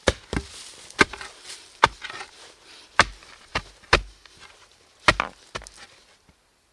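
Wood being chopped: about nine sharp blows at an uneven pace, ending about six seconds in.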